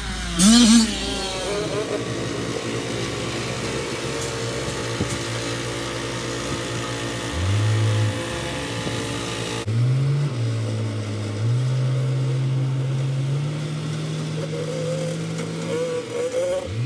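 Dirt bike engine running, its pitch jumping up and down in steps as the throttle is opened and eased off.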